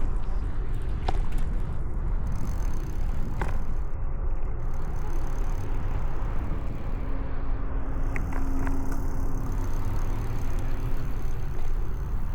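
Riding noise from a bicycle on city streets: a steady low rumble of wind on the microphone and tyres on the road, with a few light clicks and rattles. A faint steady hum sounds for a few seconds in the second half.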